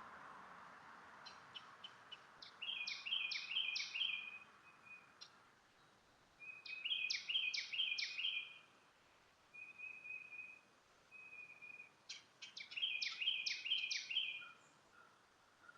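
A songbird singing in three phrases of quick chirping notes, each about two seconds long, with a couple of single short whistles between them, over faint outdoor background noise.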